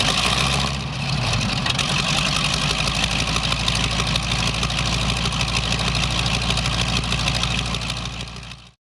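North American AT-6 Texan's Pratt & Whitney R-1340 nine-cylinder radial engine idling steadily. It fades out and then cuts off near the end.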